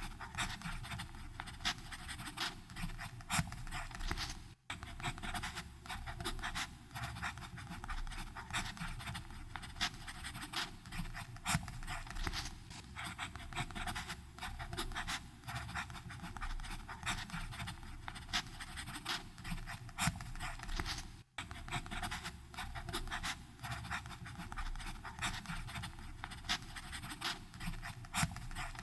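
Fountain pen nib scratching across paper in a continuous run of irregular short strokes, with two momentary breaks, about five seconds in and about twenty-one seconds in.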